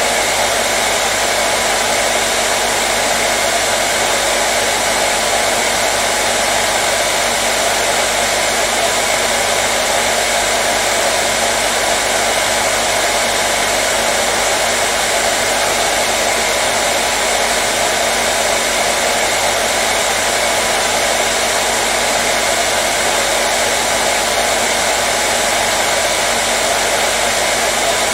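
Hair dryer running continuously at one steady speed: an even, unchanging blowing noise with a faint steady motor hum underneath.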